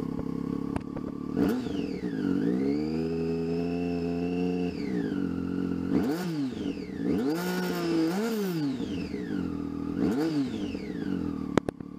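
Motorcycle engine with short exhaust pipes idling, then revved: it rises about a second and a half in and is held at steady high revs for a couple of seconds before dropping back. Several quick throttle blips follow, with a sharp click near the end.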